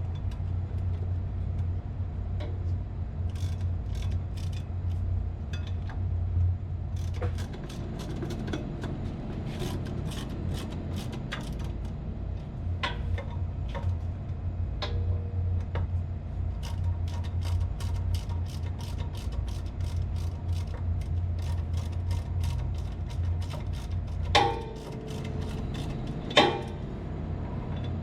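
Many small clicks and taps of tools on metal over a steady low machinery hum, then two sharper metal knocks near the end that ring briefly.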